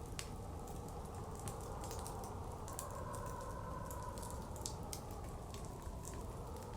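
Wood fire crackling with irregular sharp pops, over the steady rush of blizzard wind that slowly shifts in pitch.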